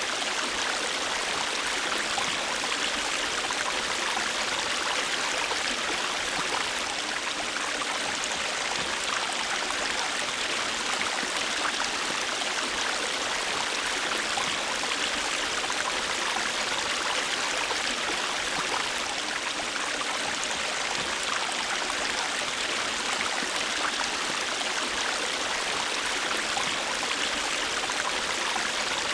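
River water rushing and babbling steadily over stones, an even hiss with fine splashy detail and no breaks.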